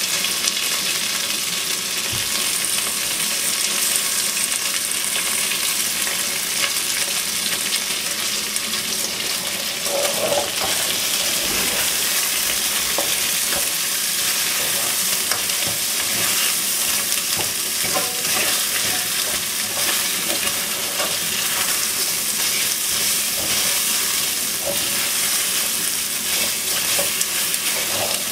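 Chicken wings sizzling steadily as they fry in a pan, with light scraping and clicks from stirring.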